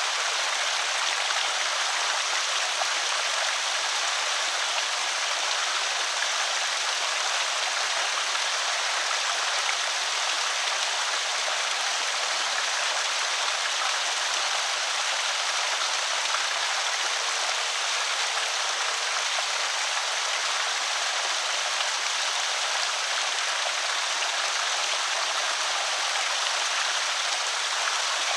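Creek water spilling steadily over a small spillway: an even, unbroken splashing hiss with no changes.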